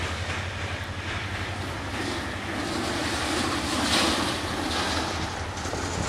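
Passenger train coaches rolling away along curved track: a steady rumble and rush of wheels on rail, swelling about four seconds in.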